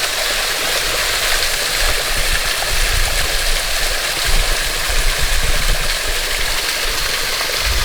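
Small waterfall splashing down a sandstone bluff: a steady, even rush of falling water.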